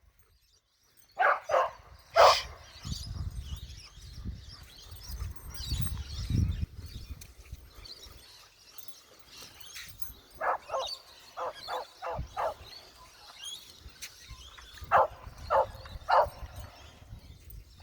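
Australian cattle dog barking in short, sharp barks. It gives a few about a second in, a quick run of barks around ten to twelve seconds in, and three or four more near the end.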